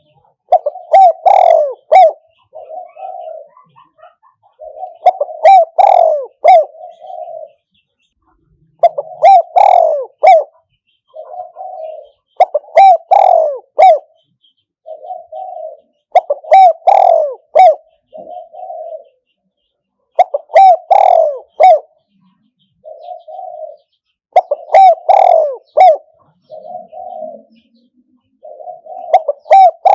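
Spotted dove cooing, used as a decoy call: a loud phrase of several coos followed by a softer coo, repeated about every four seconds, eight times.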